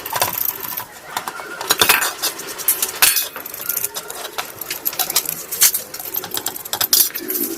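Metal AC compressor parts clinking and scraping against each other and against tools in a quick, irregular run of sharp clicks, as they are handled and cleaned of rust.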